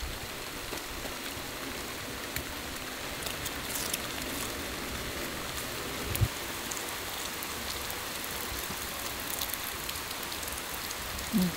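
Steady rain falling, with scattered ticks of drops and one brief thump about six seconds in.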